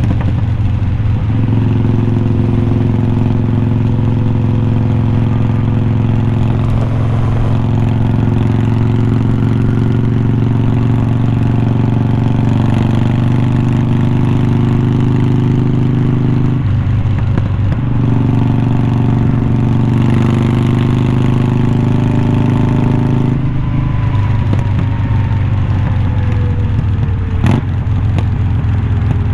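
2020 Harley-Davidson Iron 1200's air-cooled 1200 cc V-twin running steadily through unbranded glass-pack-style slip-on mufflers, the exhaust note breaking off briefly about a second in, around seventeen seconds and around twenty-three seconds before picking up again. A single sharp click near the end.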